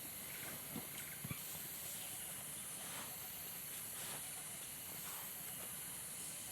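A steady high hiss with a few soft low knocks in the first second and a half.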